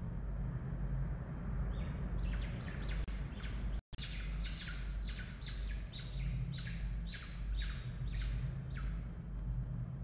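A bird giving a run of short, sharp calls, about two a second, over a steady low rumble; the calls start about two seconds in and stop near the end.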